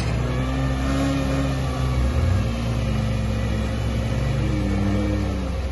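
Off-road car engine revving under load, its pitch falling, holding and rising again several times as the throttle is worked.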